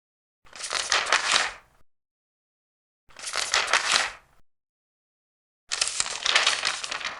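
Large paper pages being turned, three separate turns, each a rustle of about a second with silence between.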